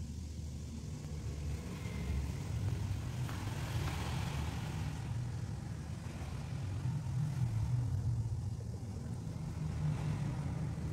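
A steady low engine rumble, like a motor vehicle running nearby.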